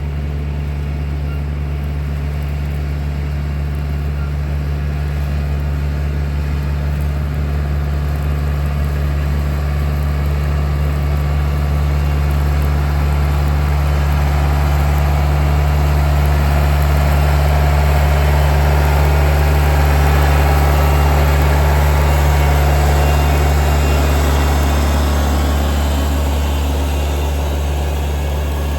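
An engine running steadily at a constant low hum, growing a little louder toward the middle and easing off near the end.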